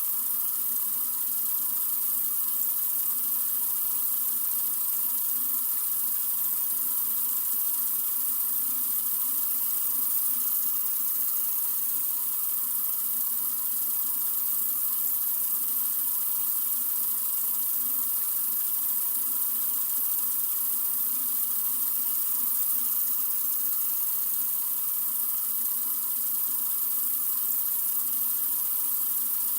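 Sink faucet running in a steady, continuous stream, a constant hiss of water that does not change.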